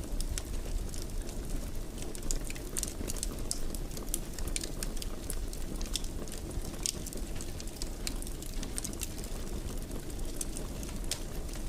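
Wood fire burning in a fireplace: a steady low rush of flame with frequent, irregular sharp crackles and pops.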